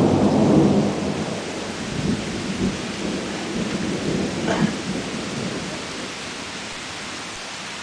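Thunder rumbling, loudest at the start and dying away over several seconds, over the steady hiss of rain.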